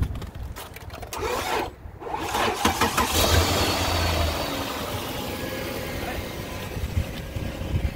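2009 Dodge Journey's engine starting on a jump start, catching about two seconds in, revving up briefly and then settling into a steady idle.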